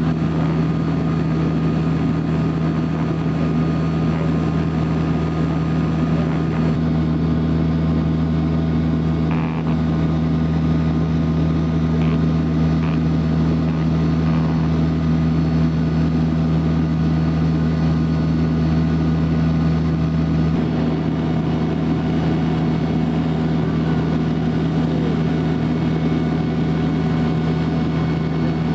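Loud, steady engine drone with a constant low hum and a second, higher tone joining about seven seconds in.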